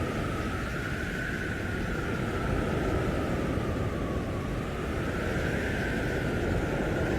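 Storm wind howling: a full rush of wind with a whistling howl whose pitch slowly falls to a low point about four seconds in, then climbs again.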